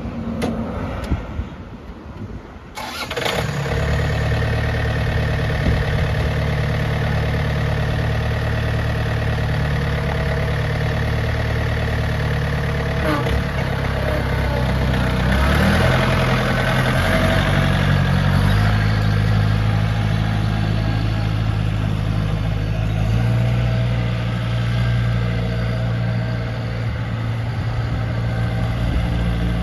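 John Deere 4600 compact tractor's three-cylinder diesel engine starting, catching about three seconds in, then running steadily, its engine speed shifting a few times.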